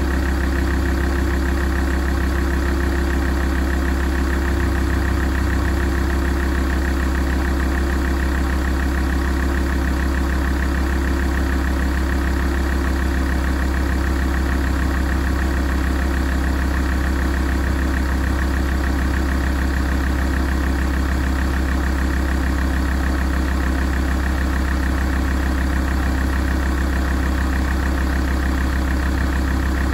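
Alfa Romeo 166 2.4 JTDm five-cylinder common-rail diesel idling steadily while it warms up.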